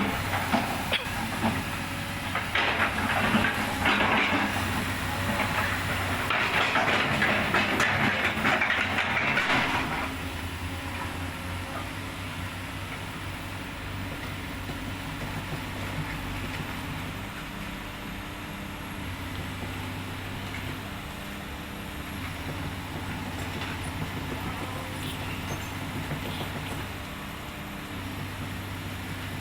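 Heavy diesel engine running steadily, with a louder rattling, hissing noise over it for about the first ten seconds before it settles to an even hum.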